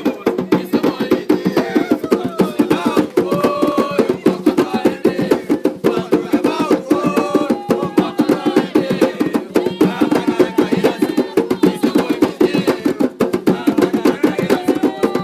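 Atabaque hand drums played in a fast, steady rhythm, with voices faintly in the background.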